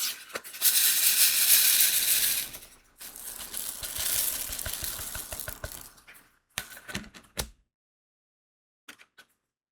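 Crystal diamond-painting beads rattling into a tray in two long pours, followed by a few separate clicks.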